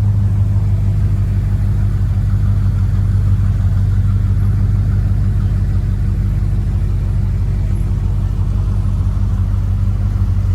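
Muscle car engine idling with a loud, steady low rumble.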